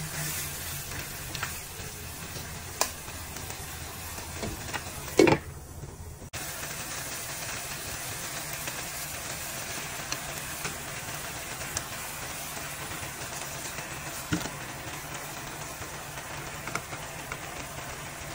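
Meat and vegetables frying in a hot wok over a gas flame, a steady sizzling hiss. A few sharp knocks land on top of it, the loudest about five seconds in.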